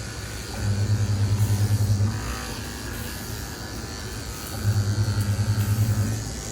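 Electric pet clippers buzzing with a steady low hum while shaving a dog's coat, the buzz growing louder twice for about a second and a half each.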